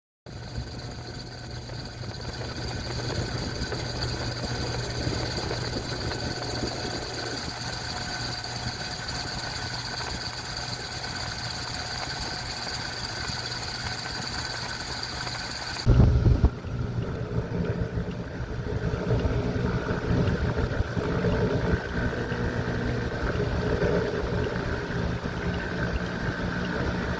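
A steady mechanical hum of a running motor. About sixteen seconds in there is a loud bump, after which the hum carries on with a rougher, changed character.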